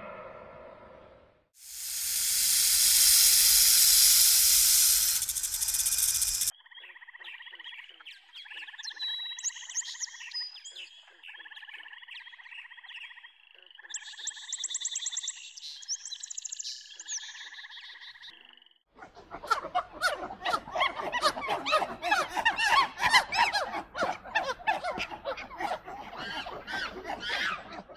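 Three animal-sound segments in a row. First a loud, steady hiss lasting about five seconds. Then some twelve seconds of trilling calls held at a few steady pitches, with quick high chirps over them, and in the last third dense, rapid, overlapping chattering calls.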